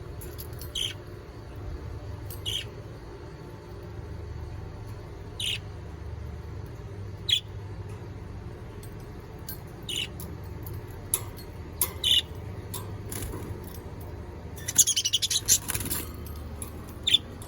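Pet birds chirping: single short high chirps every couple of seconds, then a quick run of chirps about fifteen seconds in.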